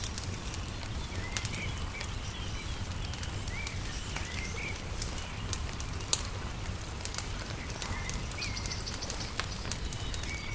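Wood fire crackling with scattered sharp pops, one louder pop about halfway, while small birds give short chirping calls throughout, over a steady low rumble.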